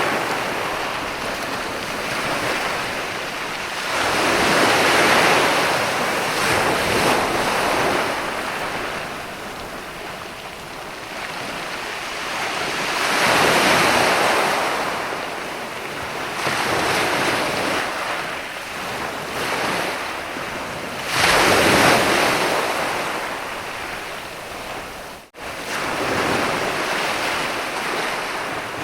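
Ocean waves breaking on a sandy beach, the surf swelling and fading roughly every eight seconds, with a momentary dropout near the end.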